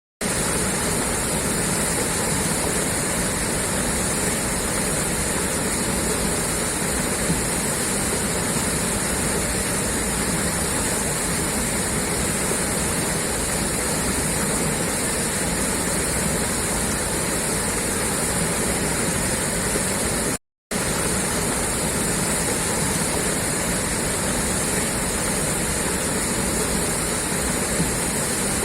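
Water pouring steadily out of a pipe, a constant rushing splash. The sound cuts out completely for a split second about twenty seconds in, then resumes unchanged.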